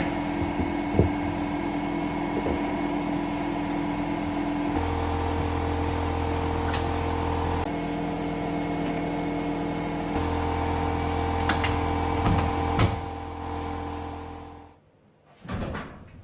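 A small electric machine running with a steady hum, its low note dropping out and coming back twice, with a few sharp metallic clicks; it shuts off near the end, followed by a single short knock.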